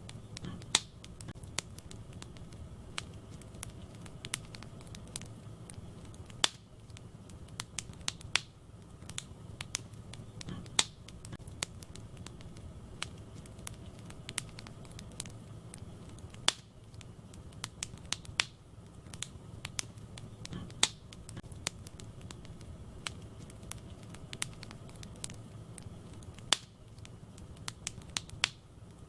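Wood fire burning in a fireplace: a steady low rumble of flames with irregular crackles and occasional sharp pops from the burning logs.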